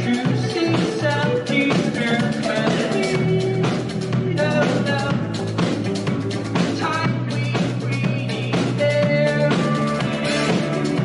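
Rock band playing live, with singing over drums and guitars on a steady beat.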